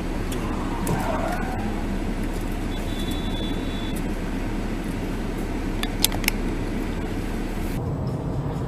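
Steady road and engine noise of a moving car, with a short high beep about three seconds in and a few sharp clicks about six seconds in; the sound changes abruptly near the end.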